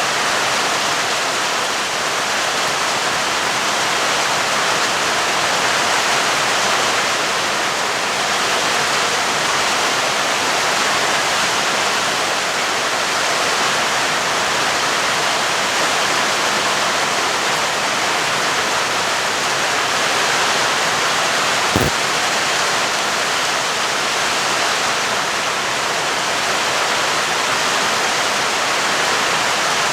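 Steady rain falling, an even hiss with no thunder, and one short sharp click about two-thirds of the way through.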